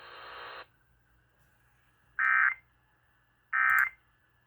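Emergency Alert System end-of-message data bursts on an FM radio broadcast: short, identical, modem-like tone bursts about a second and a half apart, marking the end of the relayed warning. A buzzing hum cuts off abruptly just over half a second in, before the first burst.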